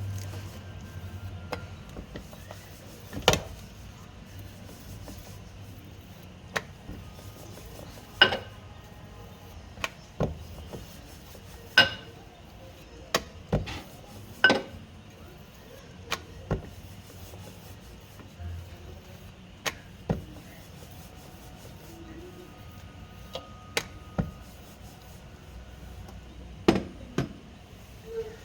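Wooden rolling pin knocking and rubbing on a rolling board as stiff samosa dough is rolled out: scattered sharp knocks at irregular intervals over a soft rubbing background.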